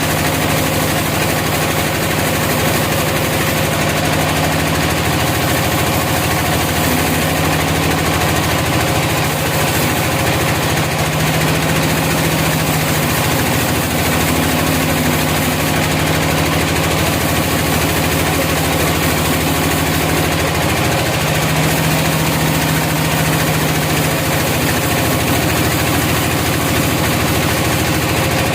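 A sawmill's engine running steadily and loudly, its low note shifting slightly up and down every few seconds as the load changes.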